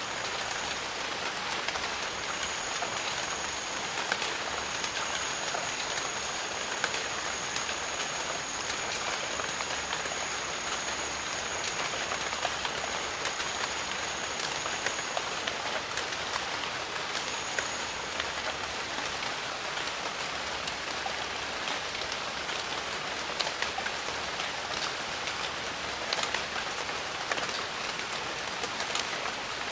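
Steady jungle rain falling, an even hiss dotted with many individual drops ticking. A thin, steady high tone sounds through the first half, stops about halfway through, and comes back once briefly.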